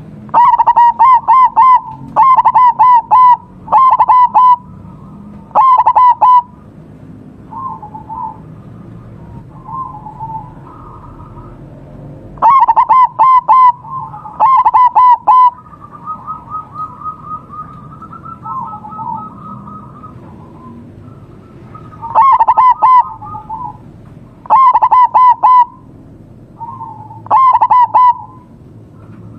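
Zebra dove (perkutut) cooing very close: several loud bursts of quick staccato coos, each burst a few notes long. Fainter, softer coos come between the bursts.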